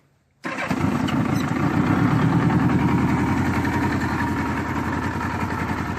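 1984 Honda Gold Wing Interstate's flat-four engine idling steadily and evenly, coming in abruptly about half a second in; it runs smoothly.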